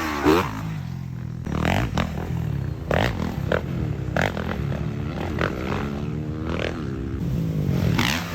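Motocross dirt-bike engines running, with the pitch repeatedly rising and falling as the throttle is blipped and revved, over a steady low engine drone.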